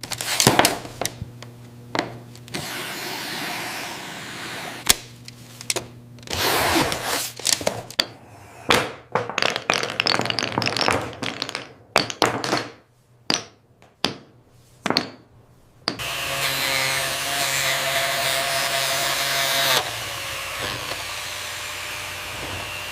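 Small electric power tool motor running in spells, with a series of sharp clicks and knocks in between. The last long run stops abruptly.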